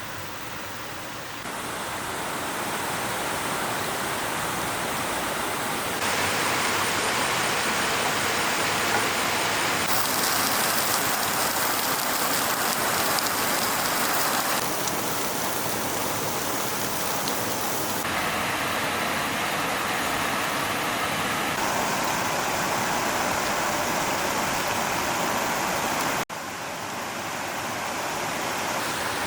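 Stream water rushing over rocks: a steady hiss that changes abruptly in loudness and tone several times, with a brief dropout near the end.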